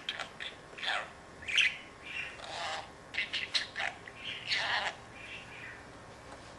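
Pet budgerigar chattering in a quick run of short chirps, squawks and warbles, the talking budgie's speech-like chatter, heard slowed down; it stops about a second before the end.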